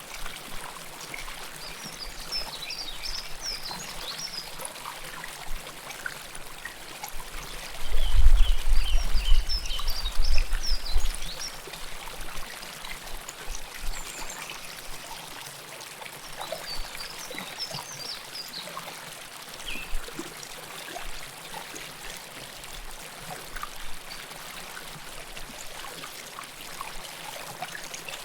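River water flowing and trickling close to the microphone, a steady babble. About eight seconds in, a low rumble rises over it for some three seconds.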